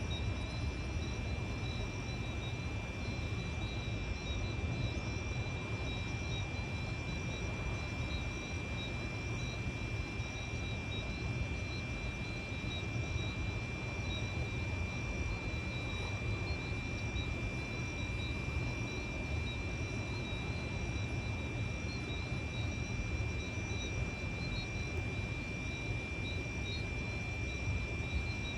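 A steady chorus of insects, with constant high-pitched whines and a fast pulsing trill, over a continuous low rumble.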